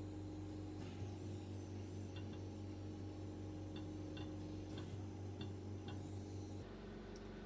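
Faint, irregular small clicks and ticks, like small metal pieces or tools being handled, over a steady low hum. The hum's character changes about a second before the end.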